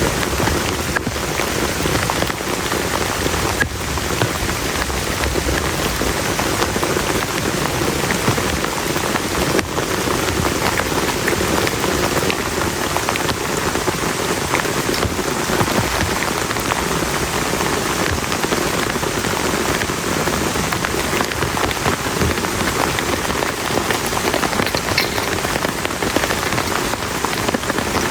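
Heavy rain falling steadily onto a plastic tarp, a dense, even hiss of many drops.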